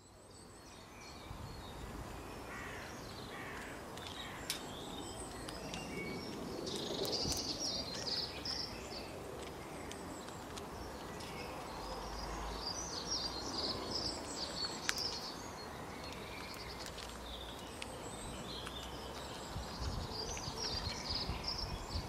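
Small birds chirping and twittering in short clusters over a steady outdoor background hiss.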